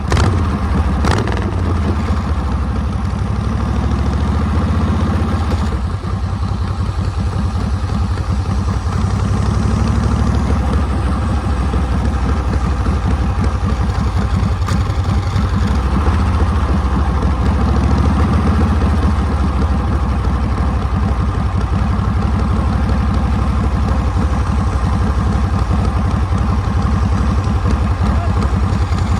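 Harley-Davidson Panhead V-twin running under way, heard close from behind the rider. Its note rises and falls a few times as the throttle is opened and eased.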